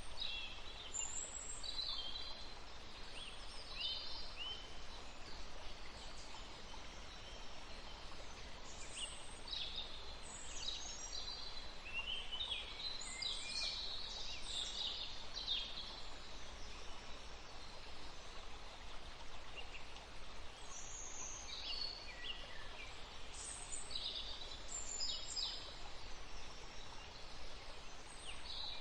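Songbirds chirping in quick, high-pitched calls over a steady background hiss. The calls are busiest around the middle, pause briefly, then pick up again.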